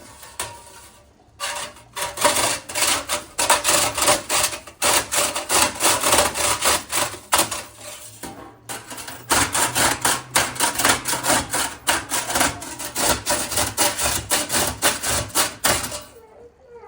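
Rapid back-and-forth scrubbing strokes of a cloth or sponge rubbed hard against a hard surface, about four strokes a second, in two long spells with a short break about halfway.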